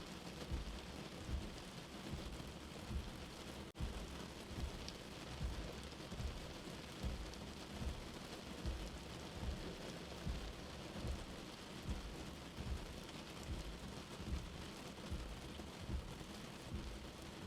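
Steady rain falling, with frequent low, dull thumps under it. The sound cuts out for an instant about four seconds in.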